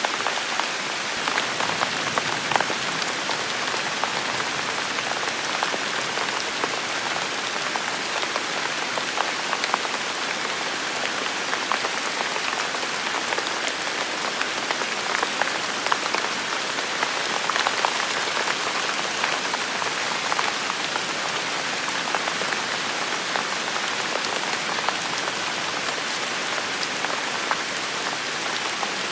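Heavy rain falling steadily, a dense even hiss of rainfall with many close drops ticking on surfaces.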